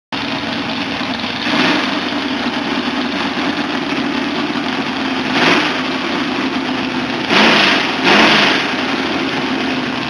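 A car engine idling steadily, its revs briefly raised four times: about one and a half seconds in, around the middle, and twice close together near the end.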